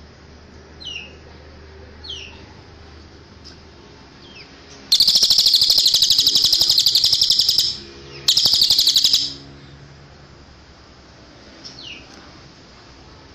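A cililin songbird singing: short, high, downward-slurred call notes, broken by two loud, very rapid high trills, the first lasting about three seconds and the second about one.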